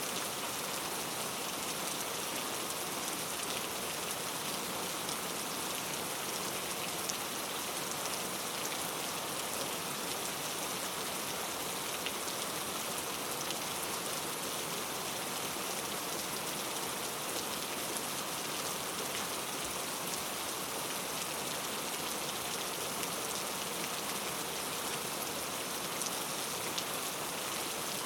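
Steady rainforest rain: an even hiss of rainfall with scattered faint ticks of single drops.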